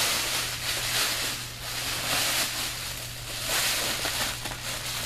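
Crinkling and rustling of a Blizzard heat blanket's quilted plastic-laminate layers as it is handled and closed around a casualty, coming in uneven swells, over a steady low hum.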